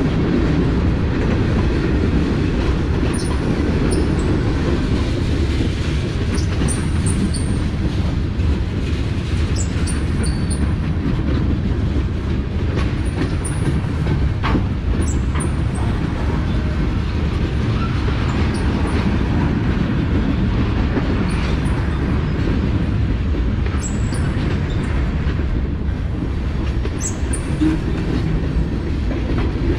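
Freight train's tank cars and covered hoppers rolling past close by: a steady rumble of steel wheels on rail, with short high squeaks scattered throughout.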